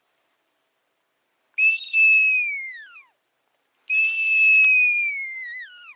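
A duck hunter's whistled call to lure a passing flock of ducks in. Two long whistles, each held on one high note and then falling away at the end.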